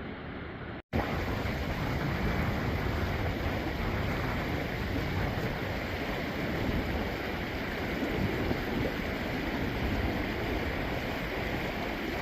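Steady rushing water from a waterfall or rapids, a constant even roar. It drops out briefly about a second in and comes back louder.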